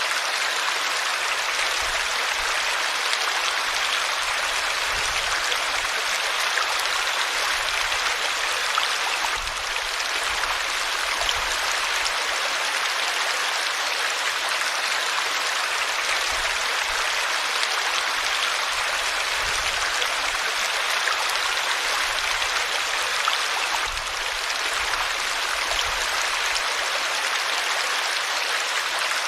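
River water flowing over rocks: a steady, even rush with no break.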